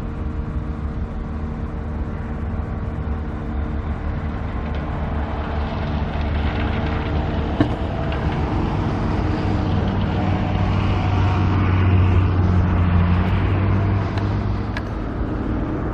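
A motor vehicle's engine running steadily over road noise, growing louder through the middle and easing off near the end.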